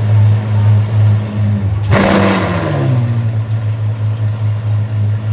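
Apollo Intensa Emozione's naturally aspirated V12 idling, blipped once about two seconds in, the revs falling back to idle within a second.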